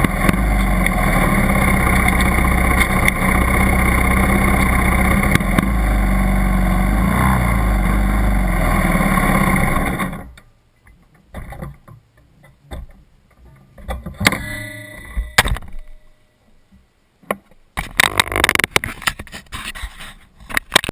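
80cc dirt bike engine running steadily, then cutting off abruptly about halfway through. Afterwards it is quiet apart from scattered short knocks and clicks.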